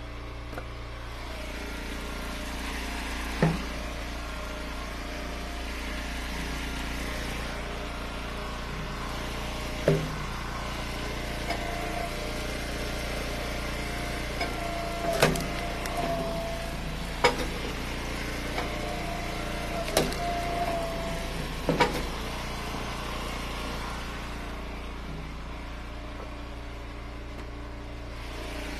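Eastonmade Ultra wood splitter's engine running steadily, with about six sharp cracks and knocks as firewood rounds are split and pieces drop.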